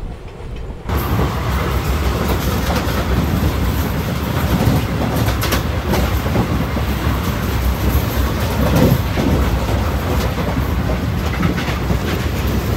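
Sleeper coach of an Indian express train running at about 105 km/h: a steady, loud rumble of the wheels on the rails with occasional clicks. The noise jumps up sharply about a second in.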